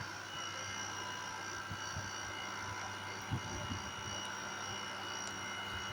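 Repaired air conditioner running, its fan motor freshly reinstalled: a steady electric hum with a high, even whine.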